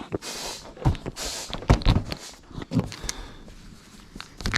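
A handful of irregular knocks and thumps with some rustling, from gear being handled and set down.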